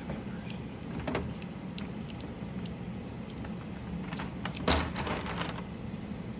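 Small hard plastic clicks and clacks from mechanical keyboard parts being handled while switches and keycaps are changed. The clicks come one at a time, then a quick rattling cluster about four and a half seconds in, the loudest clack near the middle of it. A low steady hum runs underneath.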